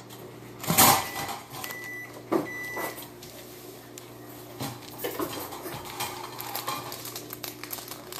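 Objects being handled on a table: a sharp knock about a second in, another about two and a half seconds in, then lighter clicks and rustling.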